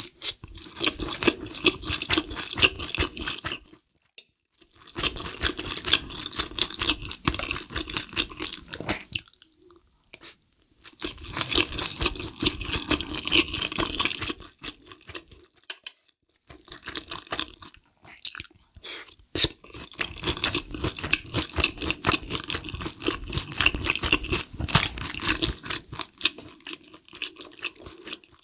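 Close-miked chewing of a mouthful of kimchi pilaf with fried egg: wet mouth sounds with crisp little crunches, in several runs of a few seconds each broken by brief pauses.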